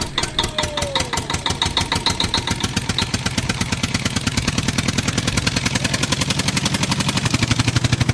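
Engine running with an even chugging beat that quickens and grows louder in the last few seconds, with a short falling tone about half a second in.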